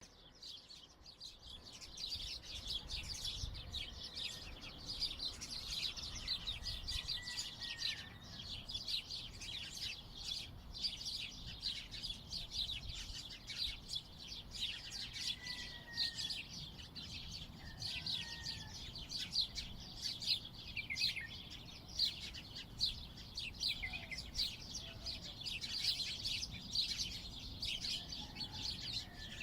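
Many small birds chirping at once in a dense, continuous chorus of short, high calls, fading in over the first couple of seconds, with an occasional lower whistled call among them.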